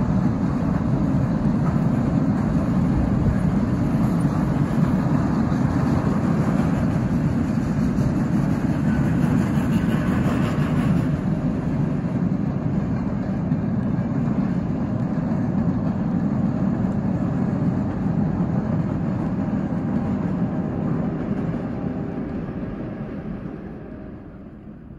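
Steady low rumbling noise, fading away over the last few seconds.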